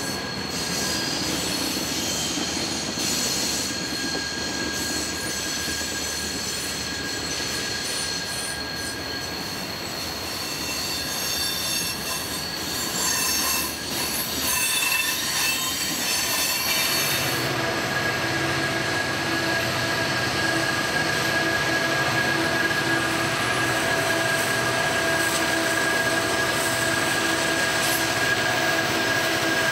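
Freight cars of a passing train rolling through a sharp curve, their wheel flanges squealing against the rail in several steady high tones over the rumble of the wheels. About two-thirds of the way through, the squeal shifts to lower tones and the low rumble grows louder.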